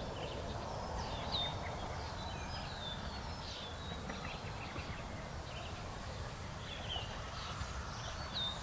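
Small birds chirping: short, quick, curving notes repeated every second or so, over a steady low outdoor rumble.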